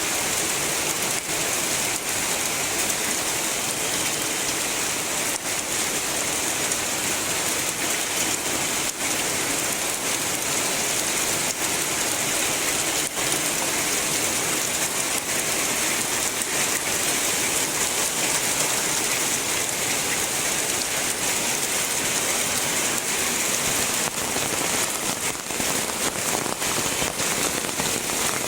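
Heavy rain falling steadily: a dense, even hiss with scattered sharp drop clicks.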